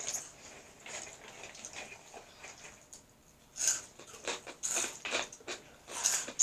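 Crunching and chewing of crispy spicy corn snacks (hot fries and Flaming Hot Cheetos), in irregular crisp crunches, louder ones about three and a half seconds in and near the end.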